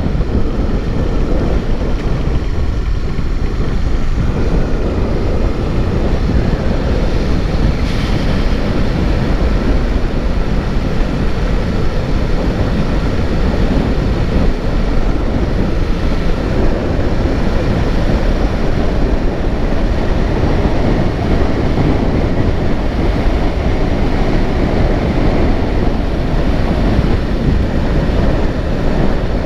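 Steady rush of wind on the microphone with vehicle and road noise while travelling along a road.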